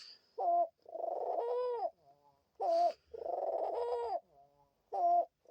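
Pet hen dove cooing over an egg: three short sharp notes, each followed by a longer drawn-out coo that rises and falls. It is the calling of a hormonal hen that has turned protective of an egg.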